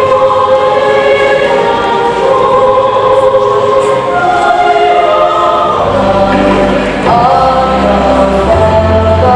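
Choir singing a national anthem in slow, held notes in several parts, with a low bass line coming in about six seconds in.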